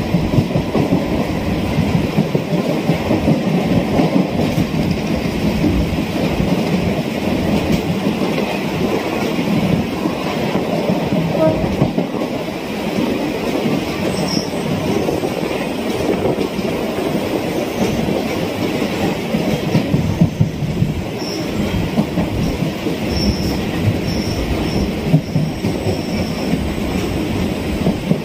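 Chennai suburban electric train running, a steady loud rumble and rattle of the carriage on the track. Several brief high wheel squeals come in from about halfway on.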